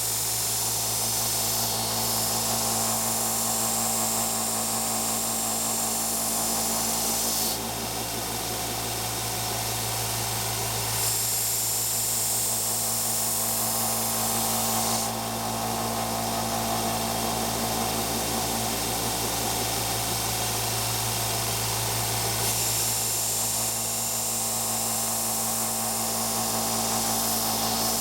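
Wilton belt sander running steadily with a 150-grit belt while a steel knife blade is ground on it to raise a burr. The grinding hiss comes in three long passes, with the motor running on alone between them.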